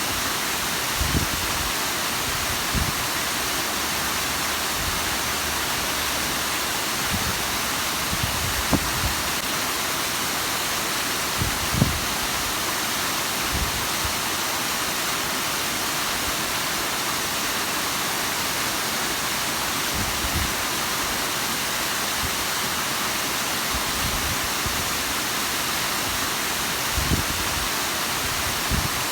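Steady rush of Bigăr waterfall, water spilling down a rock face into the river below, with a few brief low thumps scattered through it.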